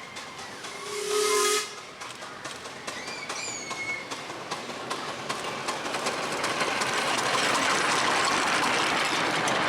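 Miniature-railway steam locomotive's whistle giving one short blast about a second in. A hiss then builds steadily louder over the second half.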